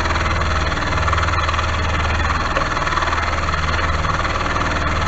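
Milling machine running with its cutter taking a 1 mm climb-milling cut in a steel block under hand feed: a steady motor hum under a continuous cutting noise. The cut is straining the machine, which is not liking it.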